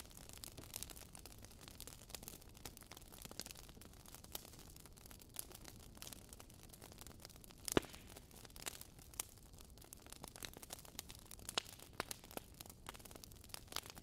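Crackling fire sound effect, faint and steady: irregular small pops and snaps over a low hiss, with one louder pop about eight seconds in.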